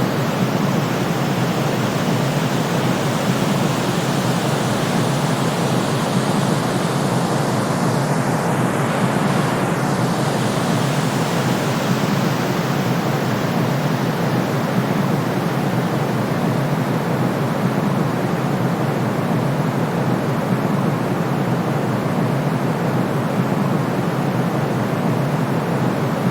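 Steady, unbroken white noise: an even hiss weighted toward the low-middle range, with nothing below a deep cutoff, played as a sleep sound for soothing a baby.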